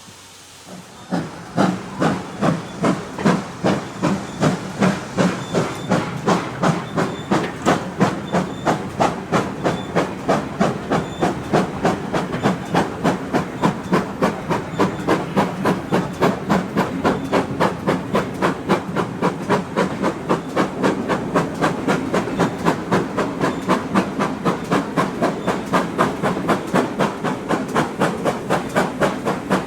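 Exhaust beat of steam locomotive No. 9351, a GWR-style 2-6-0, working under steam: loud rhythmic chuffs start about a second in at roughly two a second and quicken steadily as the train gathers speed.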